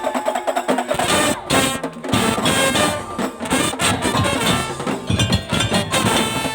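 A Madurese daul (tongtong) band playing: drums and percussion in a steady rhythm under a brass-like melody line. The low drums drop out briefly near the start and again about two seconds in.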